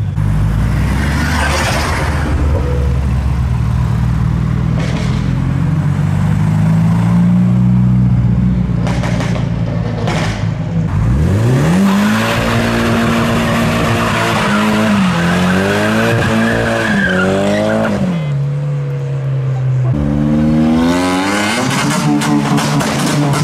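Modified cars accelerating away one after another. First comes a loud engine note under a rough hiss, with a few sharp cracks about nine to ten seconds in. From about eleven seconds a Nissan Silvia S14's engine climbs in pitch through several gear changes, and near twenty seconds a Honda Civic's engine rises as it pulls away.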